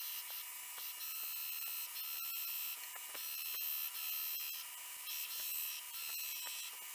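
Grinder grinding the bevels of a spring-steel knife blade: a steady high whine with a hissing edge that swells and eases as the steel is pressed on in short passes.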